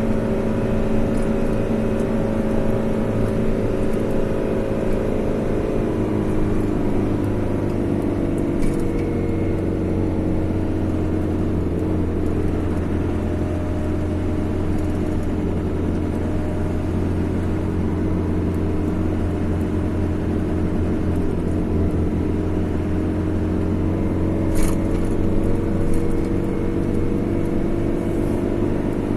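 A car driving along a road: engine and tyre noise as a steady drone, its pitch sagging a little a few seconds in and then holding steady. There is one short click near the end.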